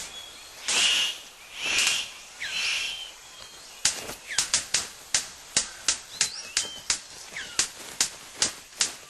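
Male superb bird of paradise courtship display: three harsh, noisy calls, then, from about four seconds in, a run of sharp clicks and snaps about two to three a second as he dances. Small chirps from other forest birds sound throughout.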